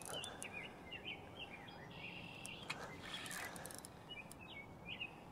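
Small songbird chirping in quick, short high notes, in two runs with a gap between them, over faint outdoor hiss; a few faint clicks in between.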